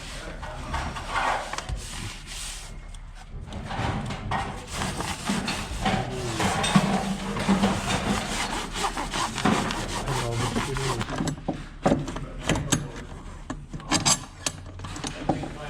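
Repeated rubbing and scraping from hand work on pipe insulation, with a few sharp knocks near the end.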